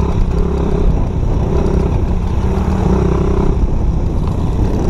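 Dirt bike engine running close by, its note shifting up and down as the revs change.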